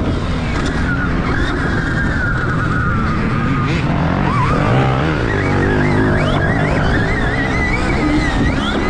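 Stark Varg electric motocross bike's motor whining, its pitch rising and falling again and again as the throttle is worked, over a steady rushing, rumbling noise.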